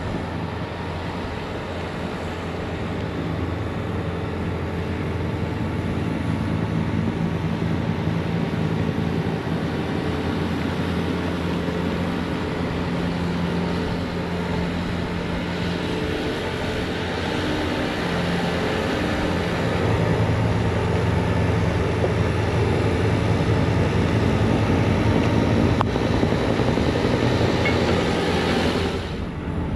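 Bobcat T66 track loader's diesel engine running steadily with its hydraulic snowblower attachment working, clearing a driveway. The engine note shifts and grows a little louder about two-thirds of the way through, and the sound cuts off abruptly near the end.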